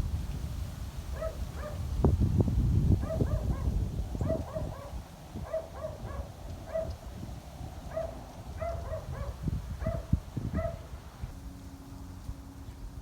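Wind buffeting the microphone, with a run of short, repeated animal calls, about one or two a second, from about a second in until near the end.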